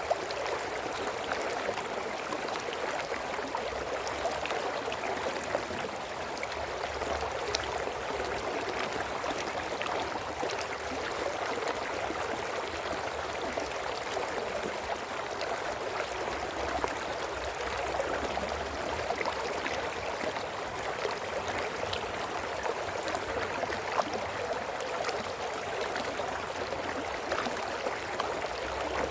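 Brook water flowing and splashing over rocks, a steady babbling rush with small scattered splashes.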